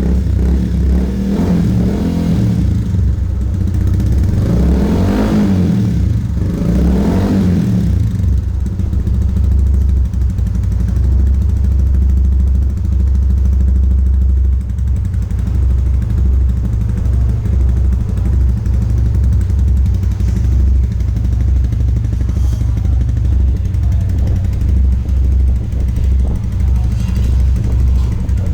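Yamaha FZS V3's single-cylinder engine idling through an aftermarket full exhaust system (an Akrapovič replica), with two quick throttle blips about five and seven seconds in, then settling back to a steady, loud idle.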